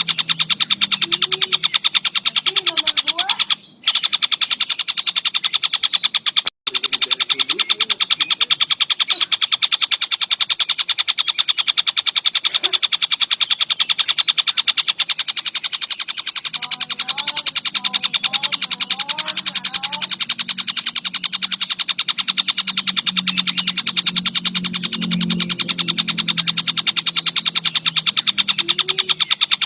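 Tengkek buto (kingfisher) calling in a dense, unbroken, very fast rattling trill, cut off for a moment twice in the first seven seconds. Faint lower calls and a low hum lie under it.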